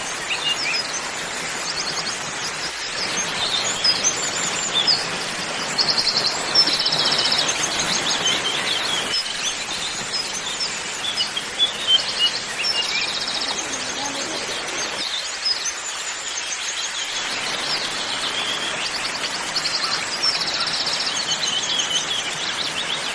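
Several birds chirping and calling, with a quick rattling trill that comes back about every seven seconds, over a steady background hiss.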